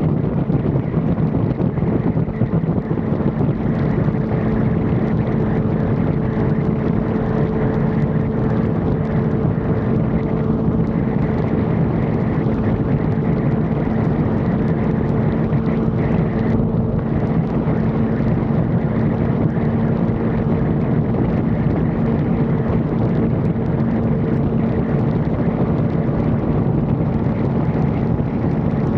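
Yamaha R1 sport bike's inline-four engine running steadily at a constant speed, with wind rushing over the microphone.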